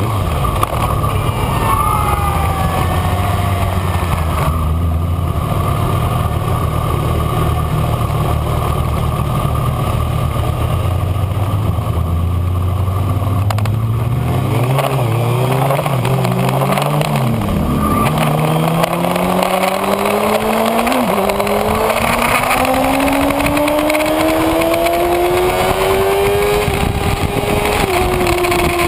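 Kawasaki Ninja ZX-6R's inline-four engine heard from onboard, with wind rushing past: a steady engine note for about the first half, then the bike accelerates hard, the pitch climbing through the gears with short dips at each upshift.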